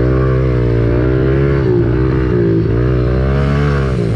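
Kawasaki KLX110 pit bike's single-cylinder four-stroke engine running hard under throttle, its pitch rising and dipping several times as the throttle is rolled on and off.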